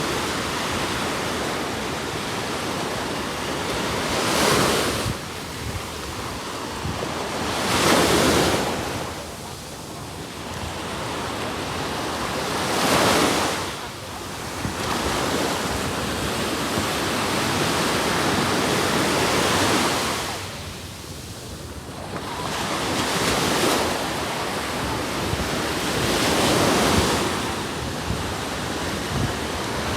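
Sea waves breaking on a sandy beach, the surf rising and falling every few seconds, with wind buffeting the microphone.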